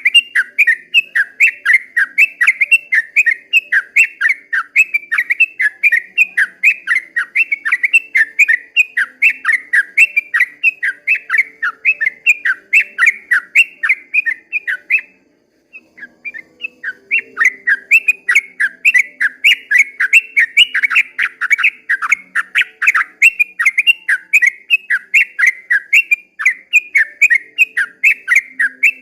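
Yellow-vented bulbul (trucukan) singing a long, fast run of whistled notes, about four or five a second. The run breaks off for about a second near the middle, then resumes.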